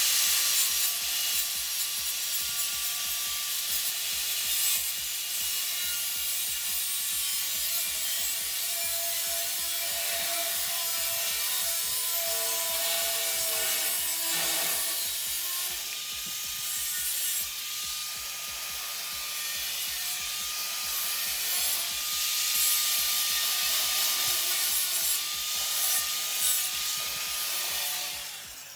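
Power tool abrading the van's sheet-metal bodywork, a steady, hissy grinding with a faint wavering whine. It runs on without a break and stops just at the end.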